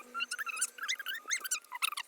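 A rapid run of short, high-pitched squeaks from a small animal, several a second, each bending in pitch.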